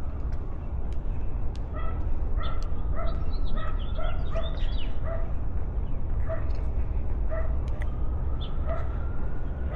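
A dog barking repeatedly in short, high yaps, about two a second, over a steady low rumble of wind on the microphone.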